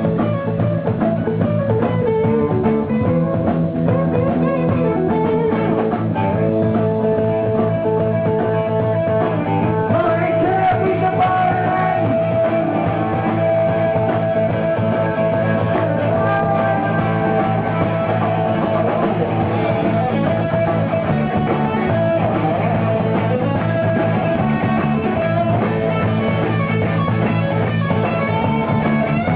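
Live band playing a rock song, with guitar to the fore over bass and drums.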